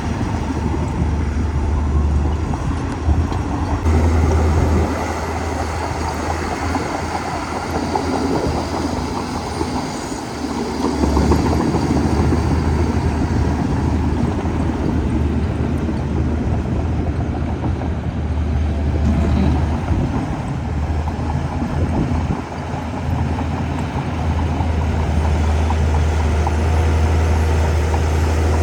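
Heavy diesel engine of a Shantui DH17C2 crawler bulldozer running steadily as it works, with a strong low drone. The drone eases briefly about ten seconds in and again around twenty seconds, then returns.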